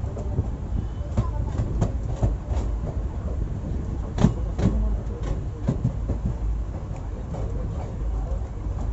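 Passenger train running along the track: a steady low rumble with irregular clatter and knocks from the wheels on the rails, the loudest knock about four seconds in.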